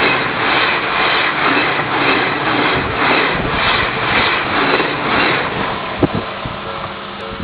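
Odakyu electric train passing close by at a level crossing, a loud rushing rumble that pulses regularly about every half-second as the wheels run past, with a sharp knock about six seconds in.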